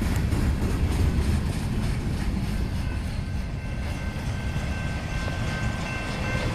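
Norfolk Southern freight train rolling past, a steady low rumble of wheels on rail. Faint thin high tones, like light wheel squeal, come in about halfway through.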